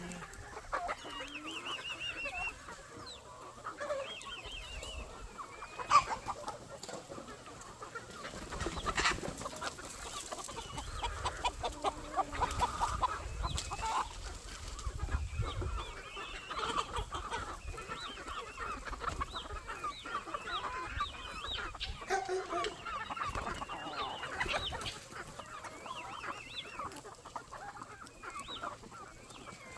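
A flock of chickens clucking and calling over one another, with many short, rising and falling calls. A single sharp knock sounds about six seconds in.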